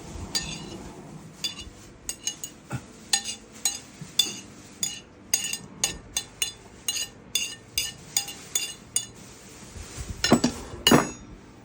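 Metal spoon clinking against a bowl, about two ringing clinks a second, as rice, raw fish and vegetables are stirred together. Near the end come two louder knocks.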